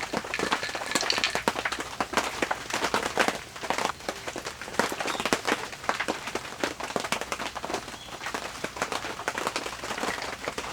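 Rain pattering on an awning overhead: a dense, irregular spatter of small taps.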